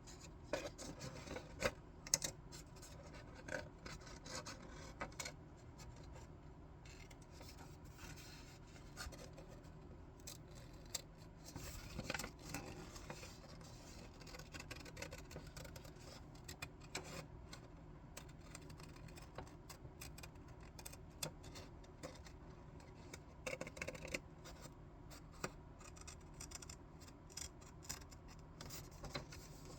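Scissors snipping through paper in short, irregular cuts, with paper rustling and rubbing between the snips.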